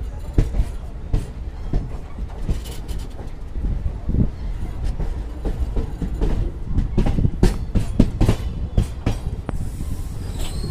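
A passenger train rolling slowly, heard from inside the coach doorway: a steady low rumble with irregular clacks and knocks as the wheels pass over rail joints and points. A faint high squeal comes in near the end.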